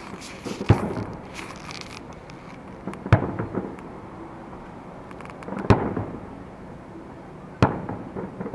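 Fireworks show: four aerial shells bursting with sharp bangs about every two to two and a half seconds, each followed by a short trailing rumble.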